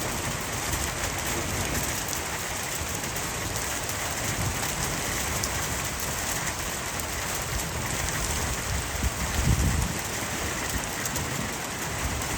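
Heavy rain falling steadily, with a brief low rumble about nine and a half seconds in.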